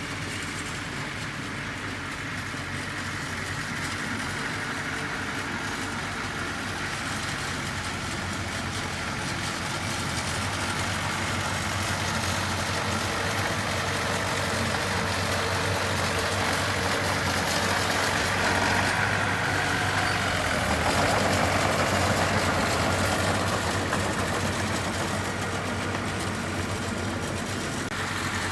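Heavy-equipment diesel engine running steadily, with a low hum under broad mechanical noise. It grows somewhat louder about two-thirds of the way through, then eases a little.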